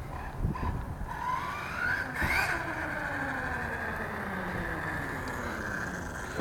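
Electric whine of a 1/8-scale RC truck's Castle Mamba X brushless motor, rising in pitch as it speeds up about two seconds in, then falling slowly as the truck slows down.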